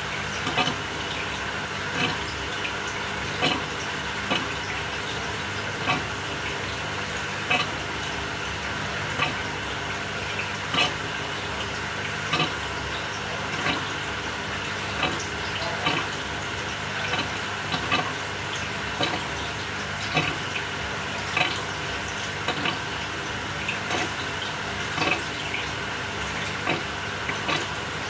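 Samsung 6.5 kg top-loading washing machine running mid-cycle: a steady motor hum with water swishing, and a short click or knock about once a second.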